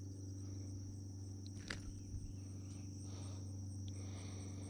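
A steady, high-pitched insect chorus with a fast pulsing trill, with two or three faint clicks over it.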